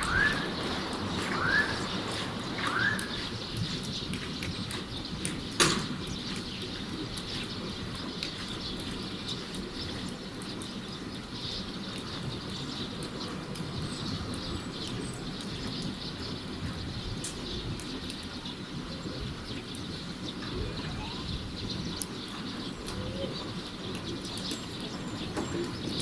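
Three short rising bird chirps in quick succession over steady outdoor background noise, then a single sharp click about five and a half seconds in.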